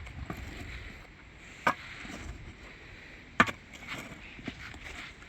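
A shovel being driven into wet soil while digging a hole. There are two sharp strikes about a second and three quarters apart, followed by a few fainter knocks.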